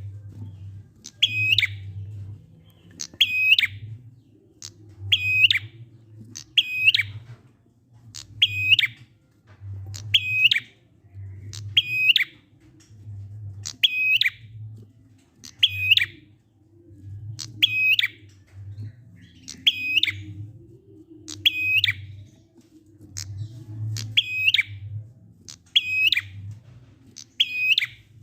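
A prinia (prenjak) gives one short, sharp call over and over, evenly about every two seconds. This is the 'ngalun' call used as a lure recording to set silent prinias singing.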